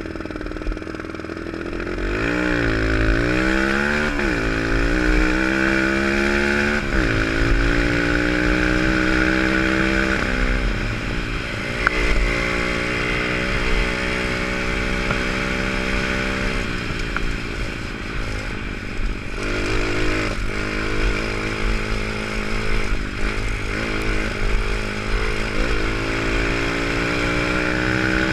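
Pit bike's single-cylinder engine being ridden hard, revving up and dropping back again and again as the rider opens and closes the throttle and shifts through the gears.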